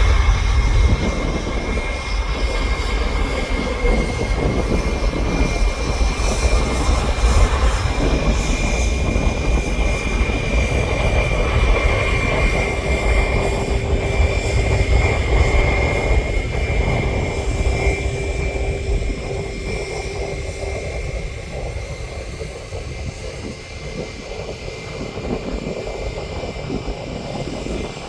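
Jet airliner's engines at take-off thrust: a loud, heavy low rumble with a steady high whine, fading gradually over the second half as the aircraft moves away.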